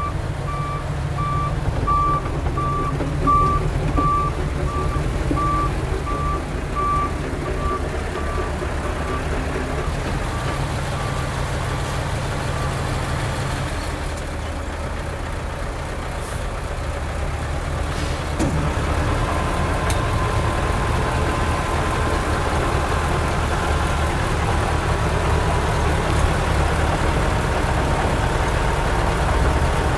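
Heavy diesel engine of a dump truck running while its reversing alarm beeps about one and a half times a second, the beeping fading out about a third of the way through; the engine keeps running.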